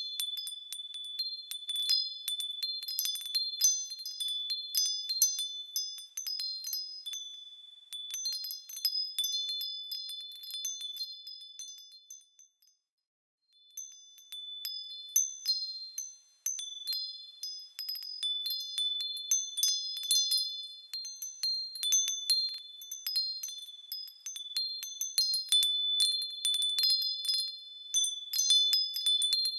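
Small high-pitched bells tinkling as they swing, many irregular overlapping strikes with lingering ringing tones. The ringing dies away briefly a little before the middle, then starts again.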